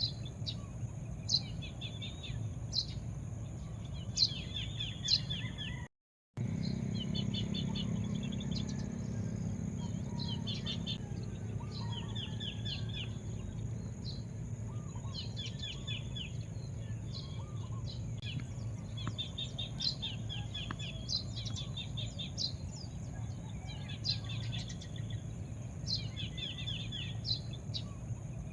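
Birds singing over and over, each phrase a sharp high note followed by a quick run of lower chirps, against a steady high-pitched hum and a low background rumble. All sound cuts out for a moment about six seconds in.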